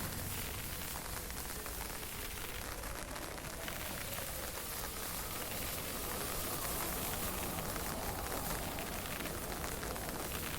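Steady hiss of light rain and misty drizzle, with wind rumbling on the microphone.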